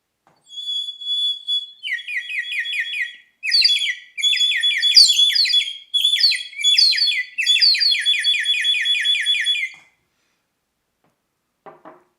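Water-filled bird-call whistle being blown, making a warbling, bird-like trill: a steady high whistle with quick repeated chirps of about eight a second, the water inside breaking up the tone. It plays in several phrases with brief breaks between breaths and stops about ten seconds in.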